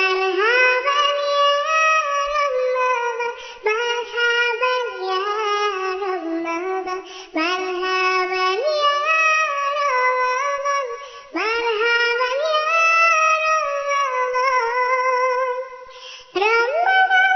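A high-pitched, childlike voice singing a sholawat, an Islamic devotional song, in phrases of about four seconds with short breaks between.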